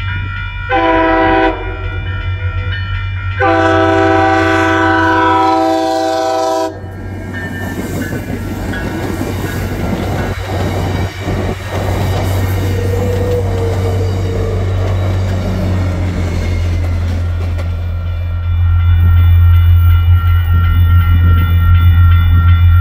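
Grade-crossing bells ringing as an MBTA commuter train sounds its horn, a short blast then a long one, and passes over the crossing with its coach wheels clattering. Near the end the diesel locomotive 1026 goes by, its engine running loud.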